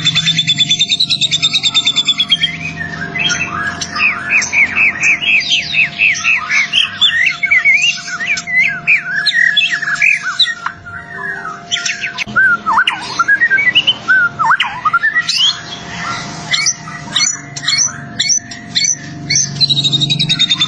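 White-rumped shama (murai batu) song: a fast buzzing trill to begin, then a long run of rapid, varied whistled notes and slurs, with sharp clicking notes toward the end. A steady faint hum lies underneath.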